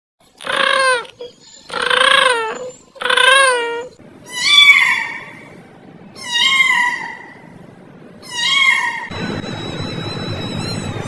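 Cat meowing six times, each call drawn out for under a second: the first three lower-pitched, the last three higher and falling at the end. About nine seconds in, a steady high tone starts over a background hiss.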